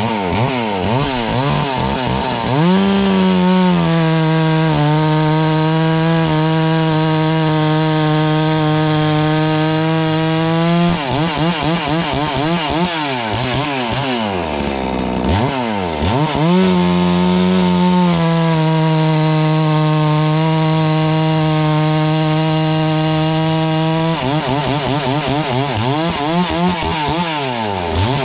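72cc two-stroke FarmMac F380W chainsaw with a 28-inch bar cutting log rounds. The engine is held at a steady high speed through two long cuts, dropping briefly to idle between them, with quick throttle blips before and after each cut.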